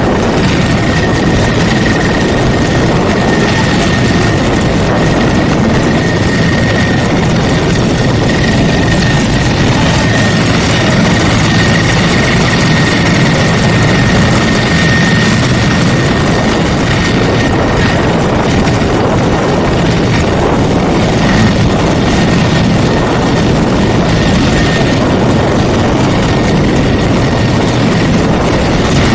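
Helicopter running close by, a loud steady rotor chop with a high steady whine over it.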